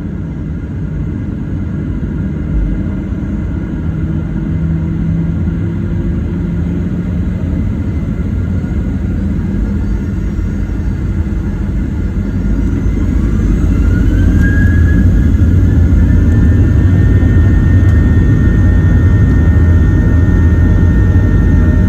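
Jet airliner engines spooling up for takeoff: a steady low rumble, then a whine that rises in pitch about 13 seconds in as the sound grows louder, then holds steady at high thrust.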